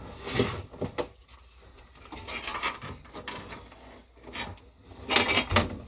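Handling noises while setting up a countertop dishwasher: a few knocks and clicks with rubbing, loudest in a cluster near the end.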